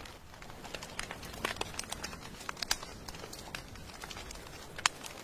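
Wood fire crackling, with irregular sharp pops, the loudest near the end, over a steady hiss of rain.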